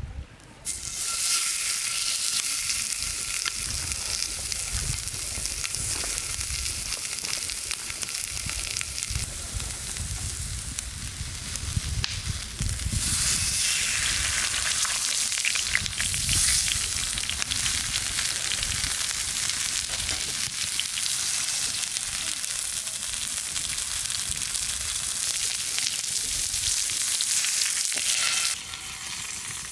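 Food frying: a steady sizzle that cuts in just under a second in and cuts off abruptly near the end, with an uneven low rumble underneath.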